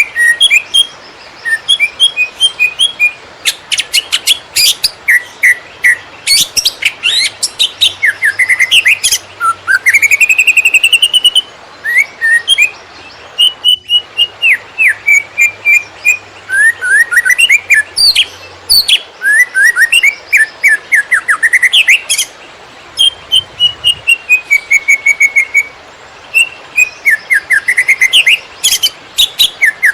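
Cucak ijo (green leafbird) singing loudly in the fast 'konslet' style: rapid, varied runs of chirps, whistled upward and downward glides and trills, broken by brief pauses.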